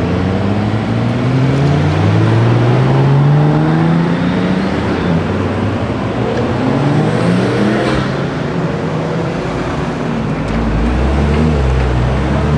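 Several car engines accelerating in turn, their notes rising and overlapping, with a deep exhaust rumble swelling near the end.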